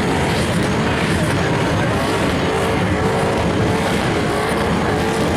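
Turbocharged drift car's engine running hard at high revs, its pitch wavering up and down.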